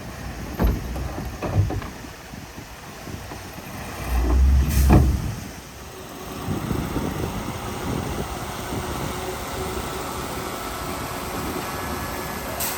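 Heavy diesel earthmoving machinery running, with two sharp knocks near the start and a loud low rumble about four seconds in, then a steadier engine sound.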